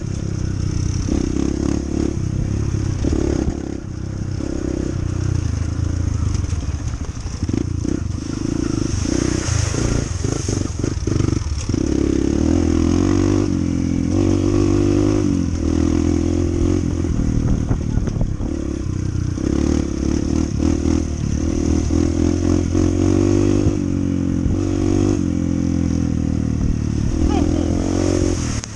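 Honda CT125's single-cylinder four-stroke engine running under way, its revs rising and falling repeatedly.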